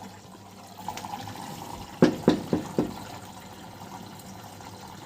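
Front-loading washing machine taking in water at the start of a wash cycle, a steady rushing hiss. About two seconds in come four quick knocks, roughly a quarter second apart.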